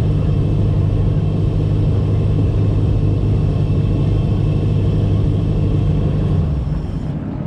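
Race truck's engine running steadily, heard from on board, a deep drone holding one pitch with no revving; it dips slightly in level about seven seconds in.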